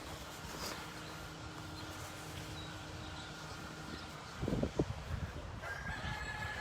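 Quiet outdoor background with a faint steady hum and two soft low thumps about four and a half seconds in.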